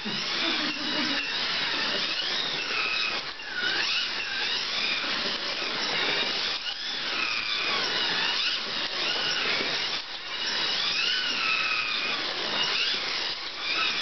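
Slot cars' small electric motors whining as they run round the track, the pitch rising and falling with speed over a steady rattling hiss, with a short dip about every three and a half seconds.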